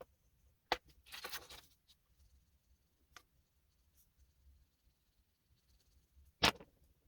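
Oil pastel rubbing on paper in a short scratchy stroke about a second in, among a few sharp clicks and taps on the desk, with a louder knock near the end.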